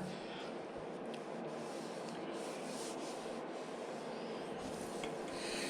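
Hand sanding of the clear-coated flake paint on a scooter side panel: soft, steady rubbing of abrasive paper over the surface.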